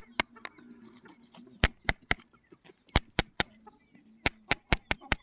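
A series of sharp, hard knocks, about a dozen, coming in quick groups of two or three, over a faint low hum.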